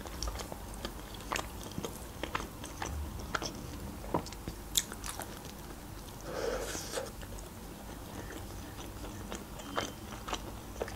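A person chewing a slice of homemade pizza, with many small crisp clicks from the crust. A louder bite into the slice comes about six seconds in.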